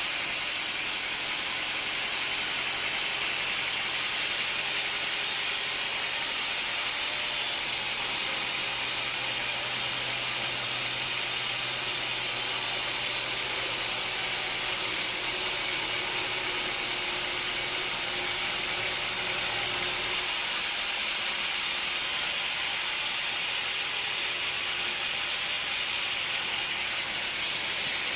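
Sawmill machinery running steadily: an even, hissing mechanical noise, with a low hum that comes in about a third of the way through and drops out about two thirds through.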